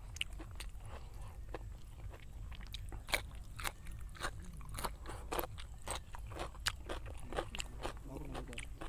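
Close-up chewing and mouth sounds of someone eating pork biryani by hand: a run of short, sharp wet clicks and smacks, several a second.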